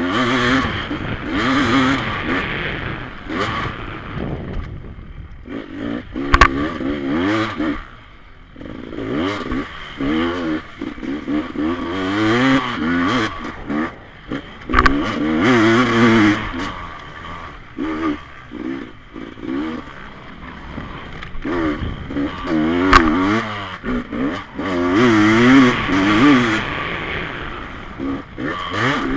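Off-road motorcycle engines revving hard in repeated bursts, the pitch rising and dropping again and again as the bikes accelerate, shift and back off over the course. Two sharp knocks stand out, about a third of the way in and again near the end.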